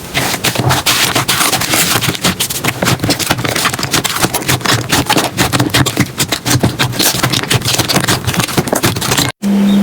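Slime being squeezed and pressed by hand, a dense run of crackles and small pops. It cuts off for an instant near the end, then starts again.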